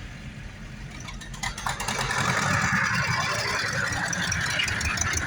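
Farm tractor engine running as it drives past, growing louder about a second and a half in, with some rattling.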